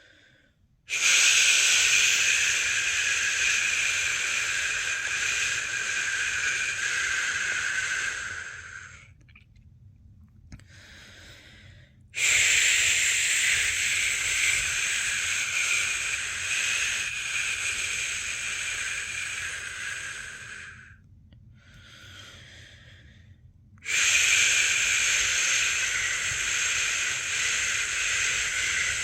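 A person shushing a newborn to sleep: long, steady 'shhh' sounds of about eight seconds each, three in all, with short, much quieter pauses between them. It is the shushing method used as white noise to settle a baby.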